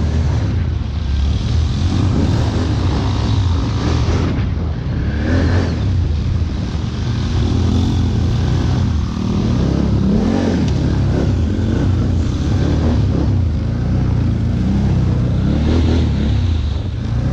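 ATV (quad bike) engine running loud and revving unevenly, its pitch rising and falling again and again.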